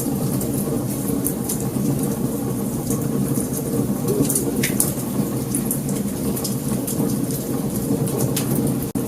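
Wood fire burning: a steady low rumble of flames with frequent sharp crackles and pops of burning wood. The sound cuts out for an instant near the end.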